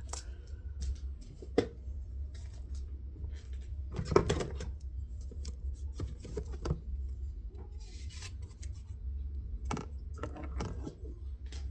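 Spoon and dishes clinking and knocking as snow cream is dished out into cups: scattered light clatters, the loudest about 1.5, 4 and 10 seconds in, over a low steady hum.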